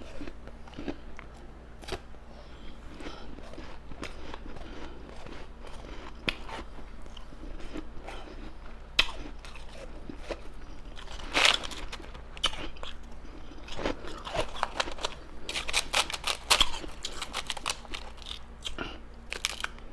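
Ice being bitten and chewed close to the microphone: irregular crunching and crackling, with louder clusters of crunches around the middle and again in the last few seconds.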